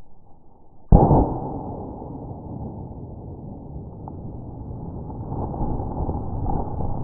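A single shot from a Kel-Tec PMR-30 .22 WMR pistol about a second in, followed by several seconds of continuous noise.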